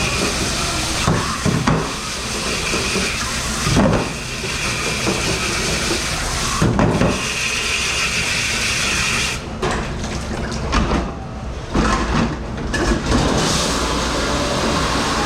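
Commercial dish pit at work: water hissing from a spray or dish machine, with dishes and racks knocking and clattering several times.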